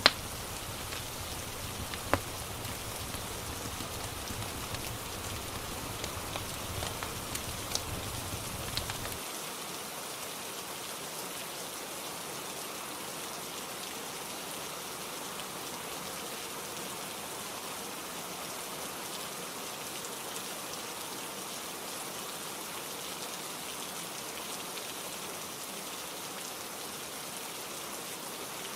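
Steady rain falling. A few sharp crackles stand out in the first nine seconds, loudest about two seconds in, over a low rumble that stops abruptly about nine seconds in.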